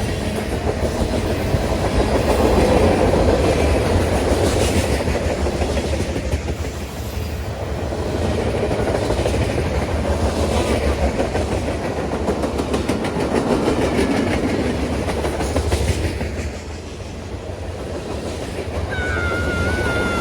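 Freight train cars rolling past, wheels clattering steadily over the rail joints with a continuous rumble. Near the end a wavering high-pitched squeal comes in.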